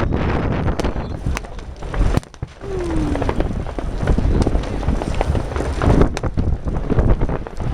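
Strong wind buffeting the microphone as a loud, uneven rumble, with scattered sharp cracks and clicks throughout and a brief lull a little after two seconds.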